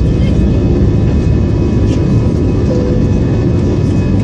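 Airbus airliner's jet engines and airflow heard from inside the cabin: a loud, steady rumble with a faint high whine laid over it.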